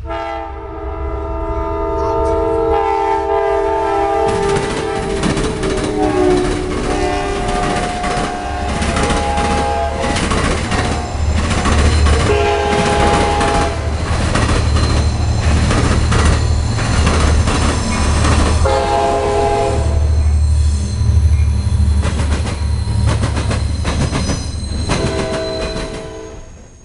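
An NJ Transit commuter train passing close by, sounding its multi-note horn: one long blast that sags slightly in pitch, then several shorter blasts. Under the horn are a heavy rumble and steady clatter of wheels over the rail joints as the train crosses the drawbridge.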